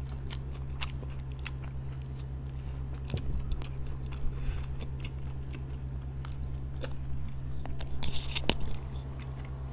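Close-up chewing and biting on homemade burgers, soft bread buns and filling, picked up by a clip-on microphone: scattered wet mouth clicks and smacks, a few louder ones near the end, over a steady low hum.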